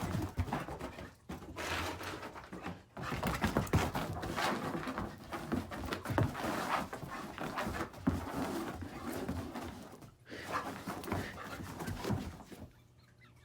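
A dog running fast laps on a hard floor in a small room: a dense, irregular run of paw and claw scrabbling that falls away shortly before the end.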